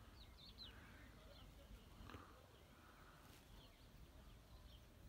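Near silence with faint birdsong: a few scattered short, high chirps from small birds.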